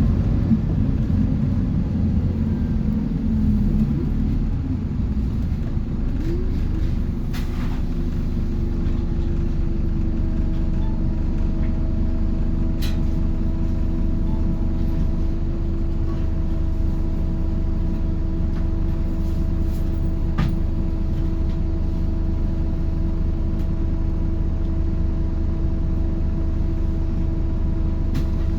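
Scania K230UB city bus heard from inside the cabin while under way: a low steady diesel and drivetrain rumble, with a steady whine that sets in a few seconds in and holds. A few light clicks or rattles sound through it.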